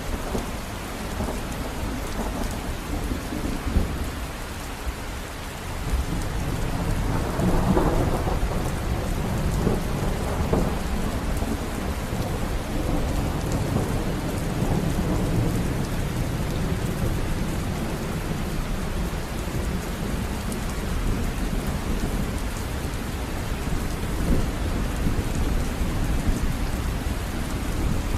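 River water running: a steady rushing noise with a heavy low rumble, a little louder from about six seconds in.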